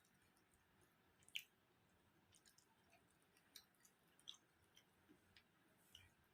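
Faint wet clicks and squishes of someone eating curry and rice: scattered soft mouth and chewing sounds, the loudest about a second and a half in.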